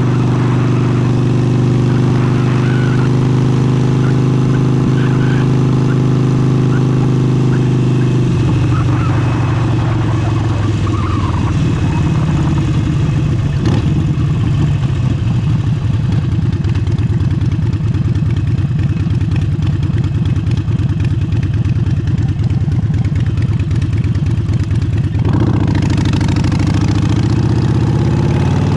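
Harley-Davidson Forty-Eight's air-cooled 1200 cc V-twin running through an aftermarket exhaust under way. The engine holds a steady note, changes to a rougher, lower beat about eight seconds in, and picks up again near the end, with wind buffeting the camera microphone.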